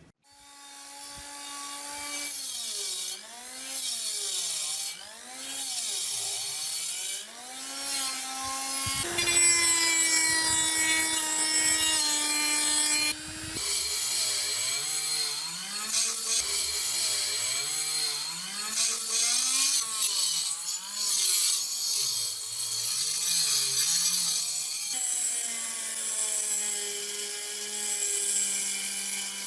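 Electric power tool motor grinding or sanding metal. Its pitch keeps dipping and rising as it is pressed against the work and eased off, under a steady rasping noise. The tool starts just after the opening and runs throughout.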